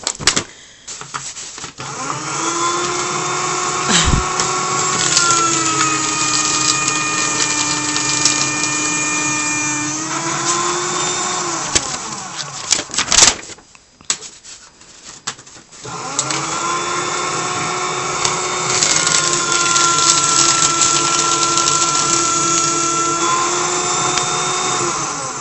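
Electric paper shredder motor running twice, about ten seconds each time, with a steady whine that drops in pitch partway through each run as paper loads the cutters, then rises again before it switches off.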